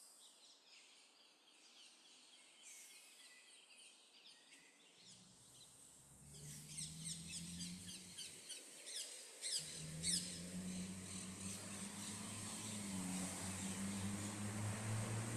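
Birds chirping and trilling in quick, high calls. A low steady drone comes in about five seconds in and grows louder toward the end.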